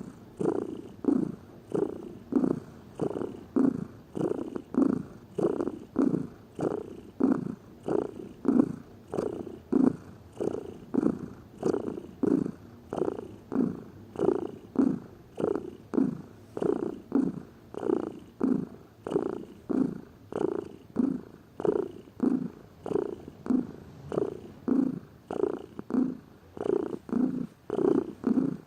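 Domestic cat purring steadily, swelling and fading in an even rhythm of about three pulses every two seconds.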